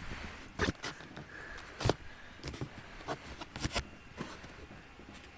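A string of irregular light knocks and taps, about a dozen, the loudest near two seconds in.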